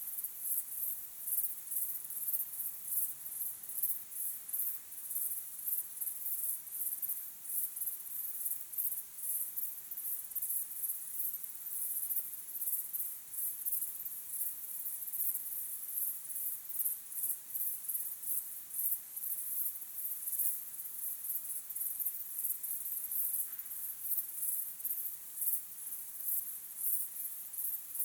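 Crickets chirping in a steady chorus, a continuous run of rapid, high-pitched pulses with no pause.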